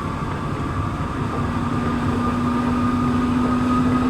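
Santiago Metro NS-16 train running between stations, heard from inside the car: a steady rumble of running noise under a motor whine that rises slowly in pitch, with a lower hum joining in about a second in as the train gathers speed.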